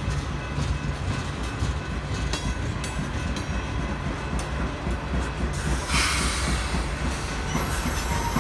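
Freight train rolling past at close range: tank cars and a covered hopper rumbling by, their steel wheels clicking over the rail joints. A loud high hiss from the train comes in about six seconds in.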